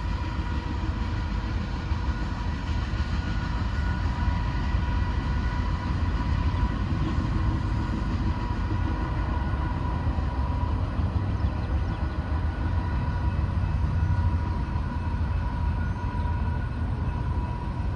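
Freight train of loaded rock cars rolling past at speed: a steady, heavy rumble of wheels on rail with a constant high-pitched ring over it.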